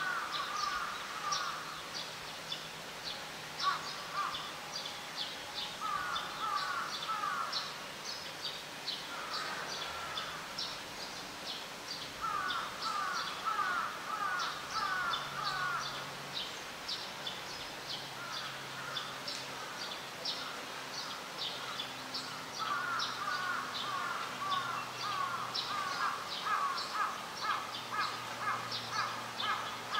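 Birds calling: a steady patter of short high chirps, with bursts of louder repeated calls every few seconds.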